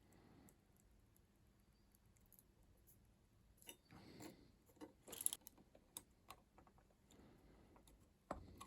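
Faint, scattered clicks and light rattles of small hard objects being handled, with a cluster about four to five seconds in and a single sharper knock near the end.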